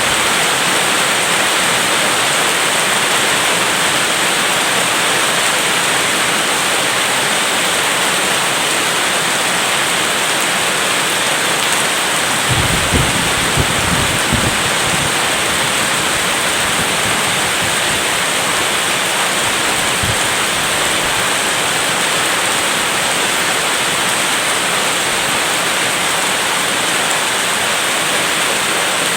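Steady heavy rain, a dense even hiss. About halfway through comes a brief cluster of low rumbles of distant thunder, with one more low rumble a little later.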